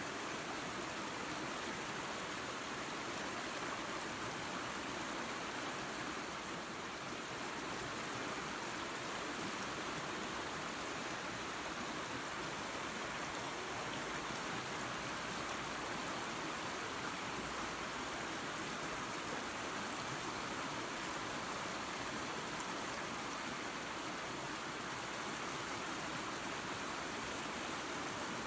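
Small waterfall spilling into a creek: a steady, even rush of running water.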